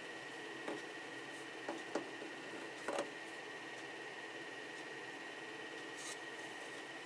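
A few light clicks and taps of a hard plastic 3D-printed part being handled and turned in the hands, in the first three seconds, over a steady background hum with a thin high whine.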